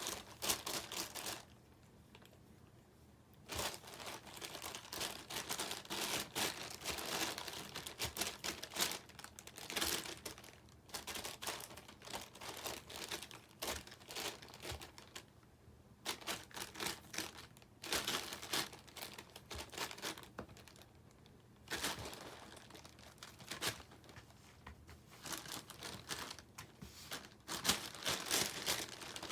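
Crinkly plastic wrapper rustling and crackling as a cat paws at it and pushes it about in play. The crinkling comes in irregular bouts of a few seconds, with short pauses between them.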